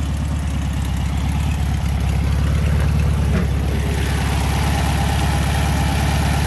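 A 1963 VW Beetle's dual-port 1641 cc air-cooled flat-four idling steadily, an engine its owner calls timed and tuned perfectly. A little over three seconds in there is a short knock as the engine lid is lifted, and the engine sounds clearer after it.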